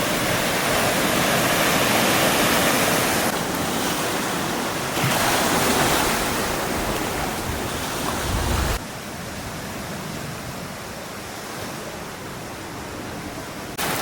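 Sea waves washing onto a beach, with wind on the microphone. The sound changes abruptly several times and drops quieter about nine seconds in.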